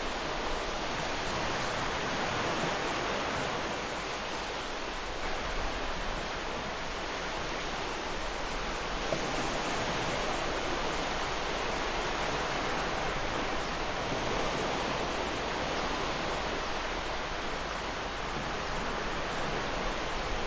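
Ocean waves breaking on a beach, a steady surf wash that swells and eases gently.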